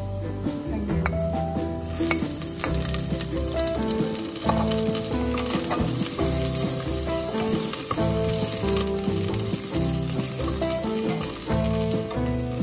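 Ginger, garlic and onion sizzling in hot oil in a stainless steel pot while a wooden spoon stirs them. The sizzle gets much stronger about two seconds in.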